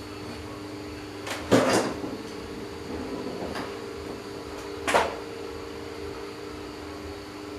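Electric fan motor running with a steady hum, interrupted by a loud cluster of knocks about a second and a half in and two sharper single knocks later on.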